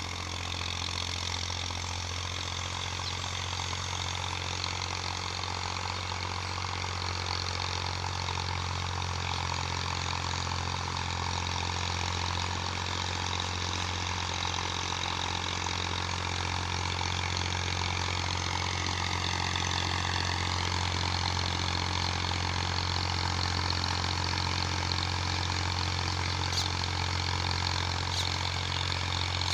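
Massey Ferguson 240 tractor's three-cylinder diesel engine running steadily while pulling a harrow. The drone grows slightly louder over the stretch.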